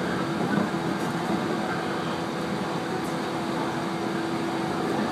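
Interior running noise of a 115-series electric train travelling at speed: a steady rush of noise with a steady low hum.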